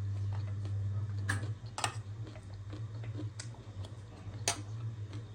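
Crisp clicks and crunches of someone eating chatpate, a spicy puffed-rice snack; three sharper clicks stand out. A steady low hum runs underneath.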